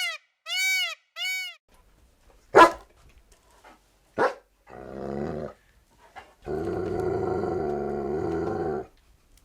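A canine barking sharply twice, then growling: a short growl followed by a long, steady growl. It opens with a few short calls that rise and fall in pitch.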